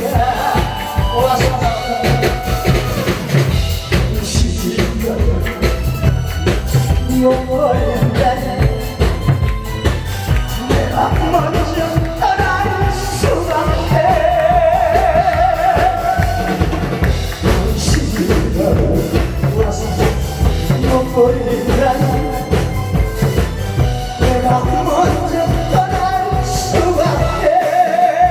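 A singer performing a song with vibrato over accompaniment with a steady drum-kit beat.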